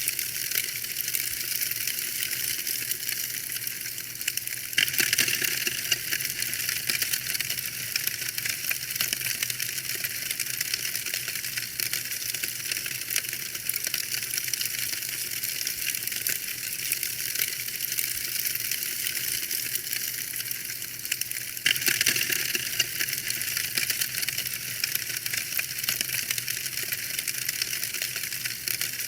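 Fireplace fire crackling steadily with dense small pops and snaps, with two louder spells of crackling, about five seconds in and again after about twenty-two seconds.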